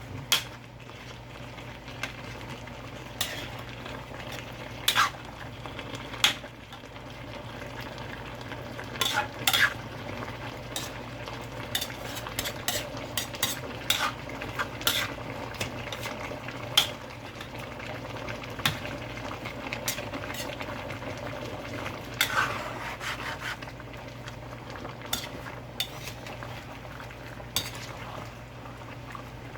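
A spoon or ladle stirring chicken curry in a cooking pot, with irregular scrapes and clinks against the pot over the steady sound of the curry cooking.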